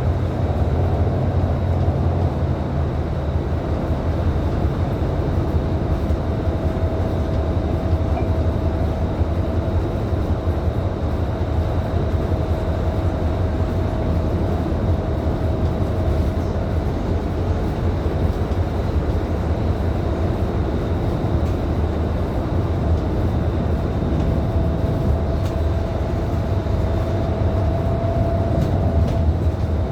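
Scania K310IB city bus's rear-mounted diesel engine running steadily while the bus cruises, a continuous low drone mixed with road and tyre noise. A faint steady whine sits above it and grows a little stronger near the end.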